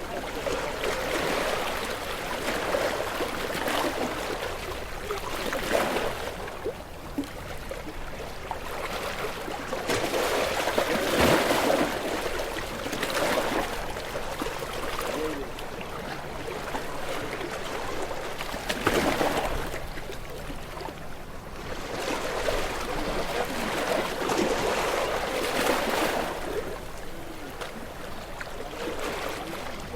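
Small waves washing onto a shore, each surge of water rising and falling back every few seconds.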